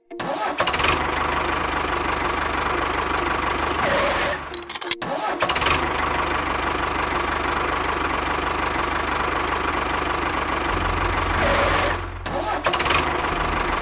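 An engine running steadily, with a sharp break about five seconds in before it carries on.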